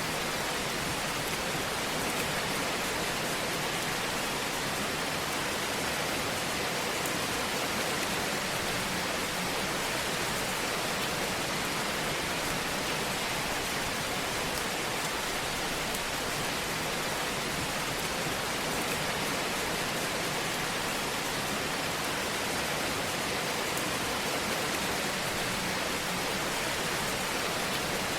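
Wood fire burning in a fireplace: a steady, even hiss with faint small crackles.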